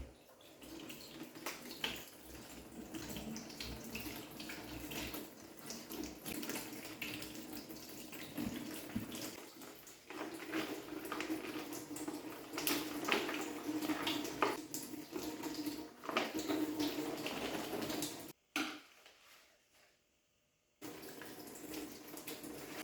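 Kitchen tap water running into a sink, with scattered light knocks and clatter of things being handled under it. The sound breaks off briefly twice about three-quarters of the way through.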